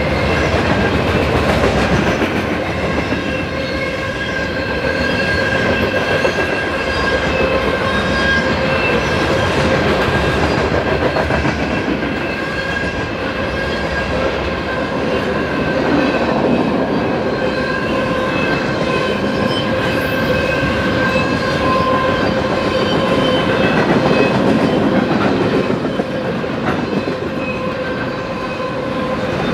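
A train rolling past at close range: steady wheel-on-rail noise with clickety-clack from the rail joints, and steady high ringing tones over it.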